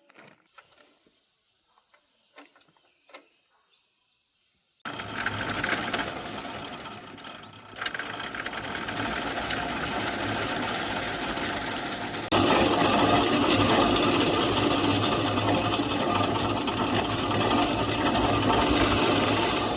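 Insects chirp steadily. About five seconds in, an engine starts running loudly, and it gets louder again about twelve seconds in.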